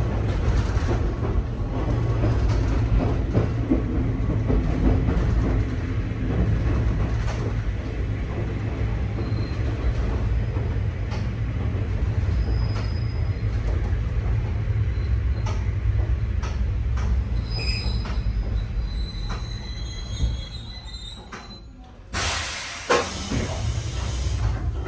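Nankai 2200-series electric train heard from inside the car, slowing to a stop at a terminus: the low running rumble fades away, with thin high brake squeals in the middle. A burst of air hiss comes near the end.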